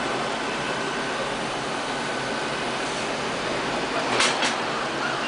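LL-A320 robot vacuum cleaner running: a steady hiss with a faint high whine, and two sharp clicks in quick succession near the end.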